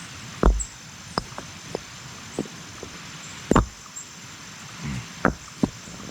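A series of irregular knocks and thuds, about ten in all, loudest about half a second in and at three and a half seconds, over a steady high drone of insects.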